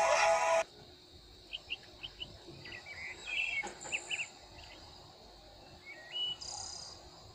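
Music cuts off under a second in. After that come scattered short, high chirps of a small bird, several in quick runs in the middle and one more near the end, over a faint steady high whine.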